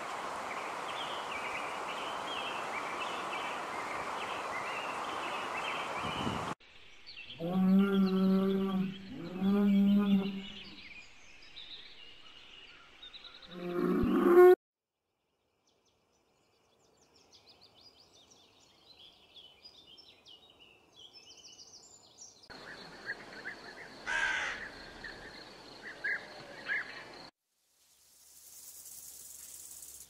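A string of outdoor animal sounds. Small chirps over a steady hiss come first, then two long, loud, pitched animal calls and a shorter rising one. After a short break, faint scattered chirps follow.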